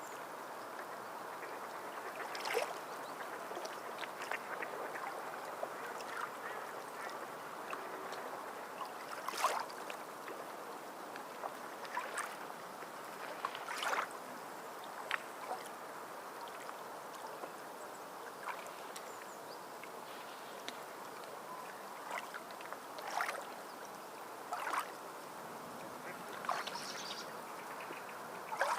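Sea water lapping: a steady wash broken by sharp, irregular slaps and splashes every couple of seconds.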